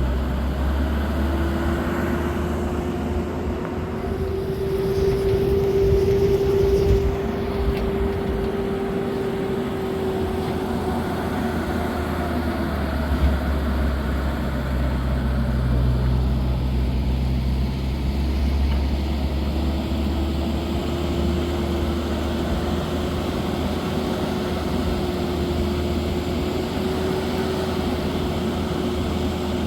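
A motor vehicle's engine running steadily on the move, with a low rumble and a hum whose pitch drifts slowly up and down, fading for a few seconds midway before coming back.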